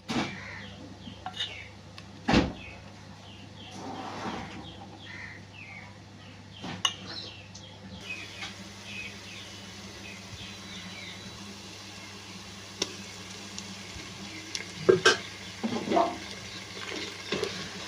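Cooking pots and utensils clinking and knocking now and then, with one sharp knock about two seconds in and a run of clinks near the end, over a faint steady hum.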